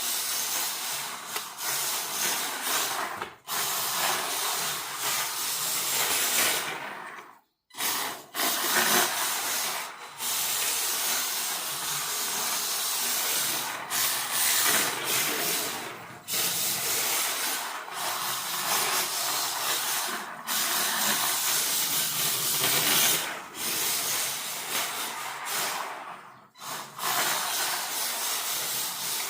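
WLtoys K969 RC drift car driving and sliding, its hard drift tyres hissing across the floor. The sound drops out briefly a few times, most deeply about seven seconds in.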